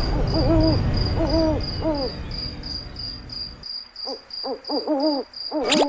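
Owl hooting in short arched calls, one run near the start and another in the last two seconds, over a cricket chirping about three times a second. A low rumble fades out a little past halfway.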